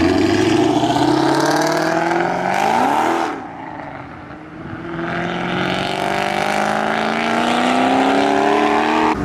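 Car engine under hard acceleration, its revs climbing over the first three seconds. About three seconds in it drops away sharply, then rises again in a second long climb.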